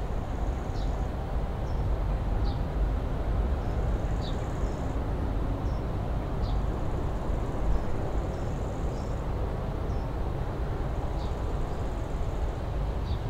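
Outdoor ambience with a steady low rumble. A small songbird gives short, high falling chirps about every two seconds, with a thin, higher note lasting about a second between some of them.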